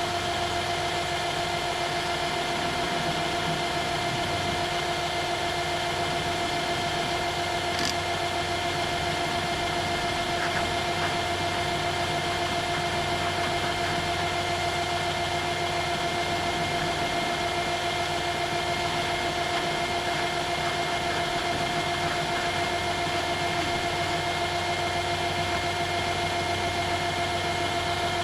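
An electric-motor workshop machine running steadily with a constant hum and no change in load, with a single faint tick about eight seconds in.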